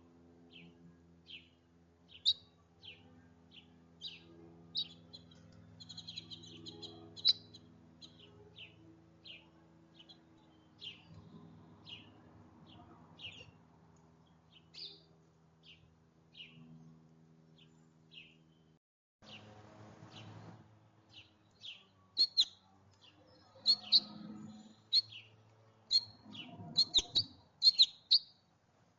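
Small songbird chirping over and over in short high notes, about two a second. The chirps grow louder and come faster in the last third, over a faint low steady hum in the first part.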